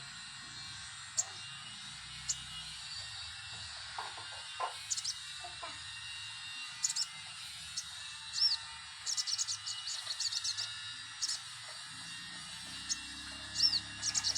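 Sogok ontong calling: sharp, high chirps, some alone and some in quick chattering runs, mostly about nine seconds in and near the end, with a couple of short curved notes. A lure recording of the bird in full, active song.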